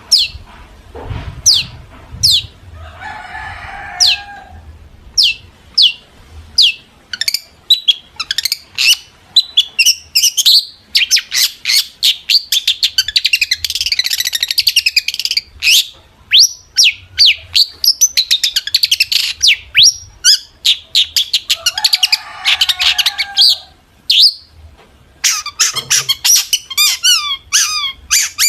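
Long-tailed shrike singing excitedly: a fast string of sharp, high, down-slurred notes mixed with harsh chattering, with a couple of lower, rougher calls and a quicker run of repeated notes near the end.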